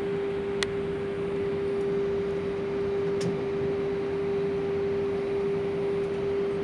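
Airbus A320 cabin noise: a steady hiss of air with one constant hum tone throughout, and two faint clicks, about half a second in and about three seconds in.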